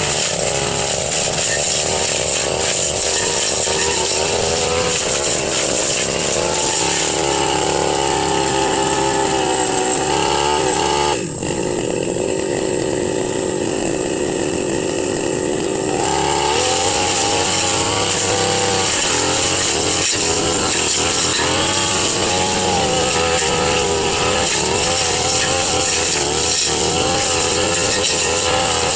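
Brush cutter engine running at high revs while slashing undergrowth, its pitch wavering as the blade works through the growth, with a brief drop about eleven seconds in.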